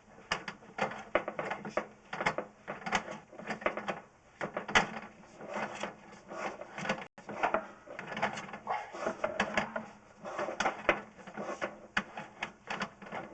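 Sewer inspection camera's push cable being fed by hand up a drain line, with irregular clicking and knocking as the rod and camera head rattle against the pipe.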